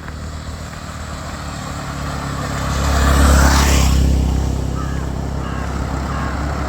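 A motor vehicle passing on the road: engine hum and tyre noise grow louder to a peak about three seconds in, then fade, with the noise building again near the end.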